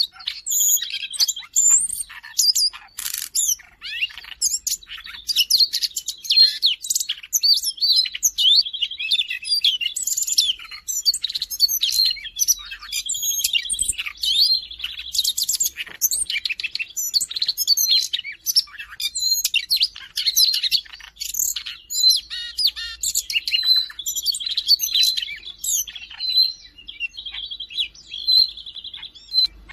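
Siberian rubythroat singing a long, continuous, varied song of rapid high chirps and whistles, broken several times by a buzzy trill.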